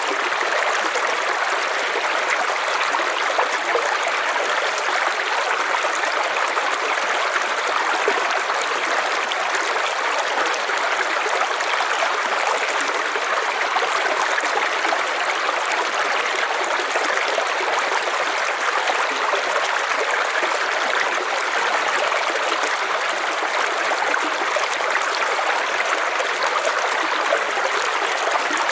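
River water flowing: a steady, even rush of moving water with no pauses or changes.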